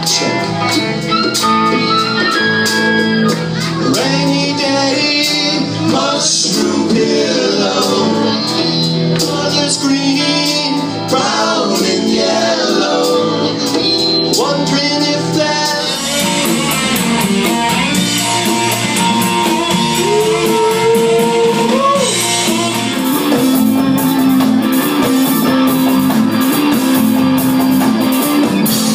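Live rock band playing, with guitar and singing; the music gets fuller and a little louder about halfway through.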